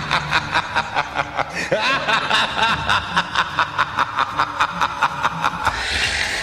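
A person laughing in a long, rapid run of snickers, about five or six a second, that stops shortly before the end.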